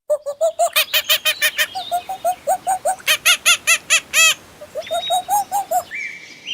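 A farm bird calling in quick runs of short, harsh, arched calls, about five or six a second, with a brief pause about four and a half seconds in.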